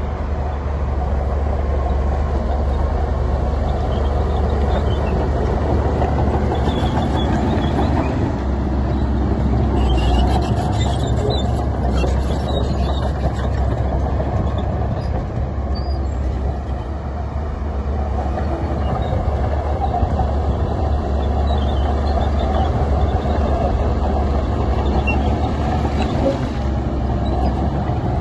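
Heavy diesel earthmoving machinery, a bulldozer and dump trucks, running steadily with a deep, continuous rumble and a few faint clanks partway through.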